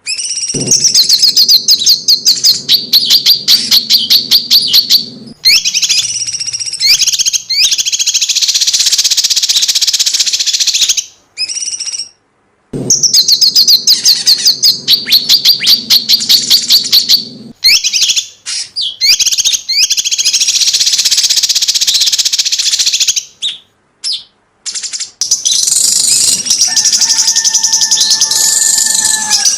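A small songbird, called cucak cungkok in Indonesia, sings a fast rattling 'tembakan' song. It comes in runs of several seconds of sharp, high, tightly spaced notes, about five a second, broken by short pauses, with denser warbling passages between the runs.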